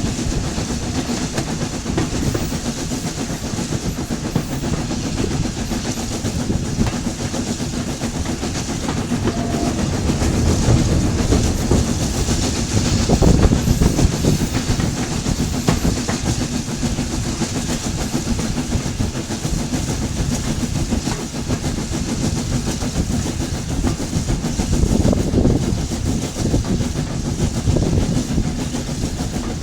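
Heritage railway train on the move: a steady rumble of wheels on the track with clicks over the rail joints, swelling louder twice.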